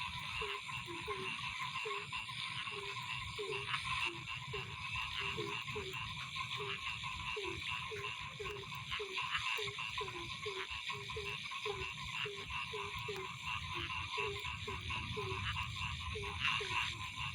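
A chorus of frogs croaking: short, low calls repeat about two to three times a second over a steady, higher-pitched pulsing chorus.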